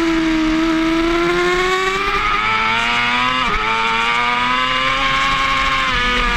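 Yamaha R6 race bike's inline-four engine at high revs, heard from onboard. The revs dip slightly, then climb, break briefly about three and a half seconds in, climb again and ease off near the end.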